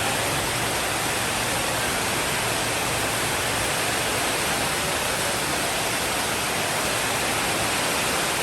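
Steady rainfall, a continuous even hiss with no thunder.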